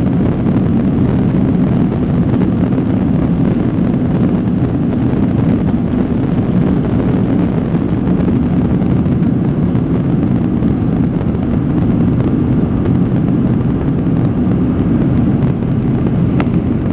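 Steady cabin noise of an Airbus A300B4-601 at takeoff power: its twin jet engines and the airflow make an even, low rumble inside the passenger cabin.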